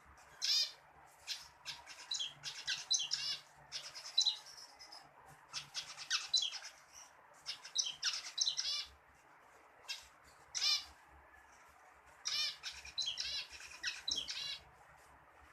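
Zebra finch singing: repeated phrases of rapid, high, stacked notes, several song bursts separated by short pauses.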